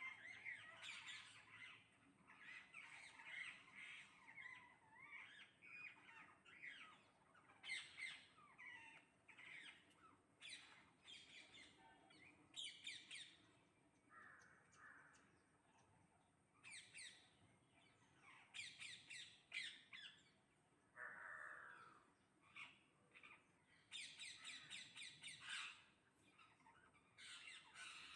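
Faint, repeated harsh squawks and chirps from a flock of parrots, with crow-like caws among them, coming in bursts of rapid calls with short gaps.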